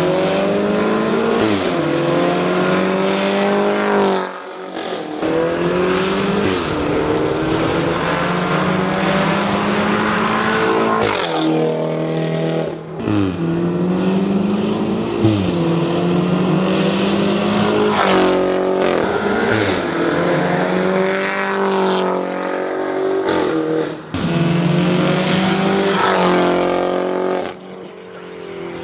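BMW 530i's turbocharged 2.0-litre four-cylinder, breathing through an Armytrix valved exhaust, accelerating hard through the gears. The pitch climbs and falls back at each upshift, around eight times, with sharp cracks at several of the shifts.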